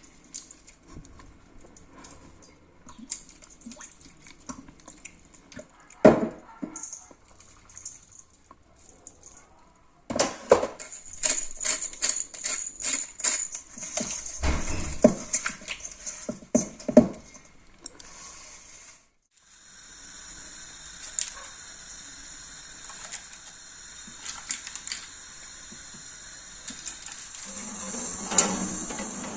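Kitchen work sounds: dishes and utensils clinking and knocking, scattered at first, then a busier run of clatter. After a sudden cut about two-thirds through, a steady hiss with occasional clicks.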